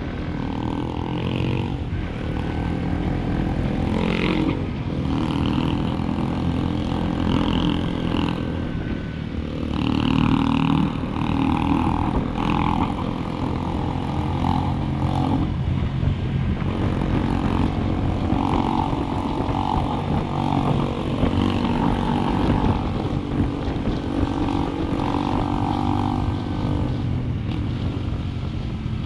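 Motorcycle engine running under way, its revs rising and falling as it rides.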